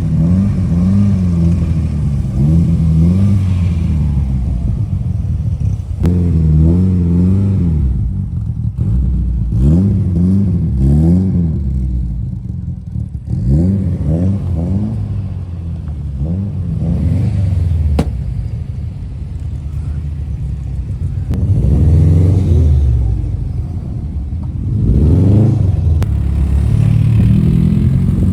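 A vehicle engine idling and being revved in repeated blips, its pitch rising and falling back several times.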